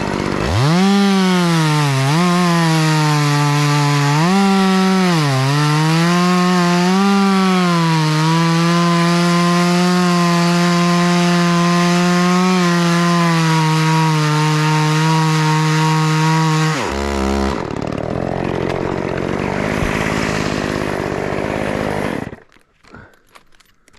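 Gas chainsaw running loud, its revs rising and dipping several times before holding steady at high speed. The engine cuts off suddenly about 17 seconds in, followed by several seconds of rushing noise that stops near the end.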